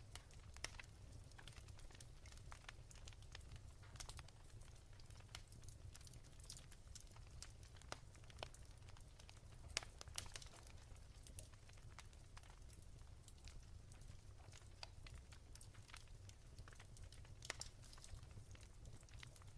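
Wood fire crackling softly in a fireplace: faint, irregular pops and snaps over a low steady rumble.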